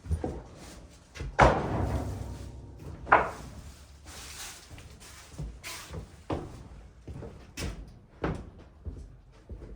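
Pine boards knocking and thudding as they are handled: two loud knocks in the first few seconds, then several lighter ones.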